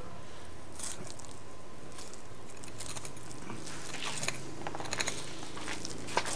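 Filleting knife slicing a fillet off a large grouper along its fin bones, with faint scraping and small crunching clicks that grow more frequent in the second half.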